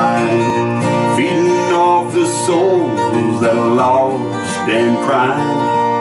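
Bluegrass gospel instrumental: strummed acoustic guitar with a melodic lead line that slides and bends in pitch over it.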